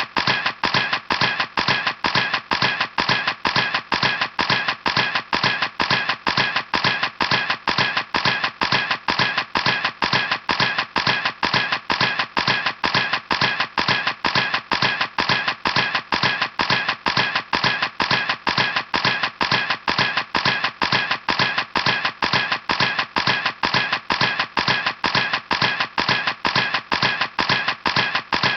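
Camera shutter clicking over and over in a steady, even rhythm, about three clicks a second.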